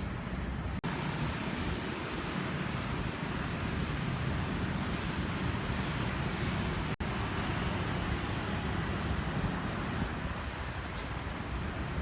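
Steady rumble of passing vehicles, with the sound cutting out for an instant twice, about a second in and again about seven seconds in.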